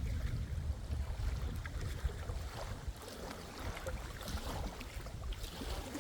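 Wind buffeting the microphone with a steady low rumble, over small lake waves lapping and splashing at the shore.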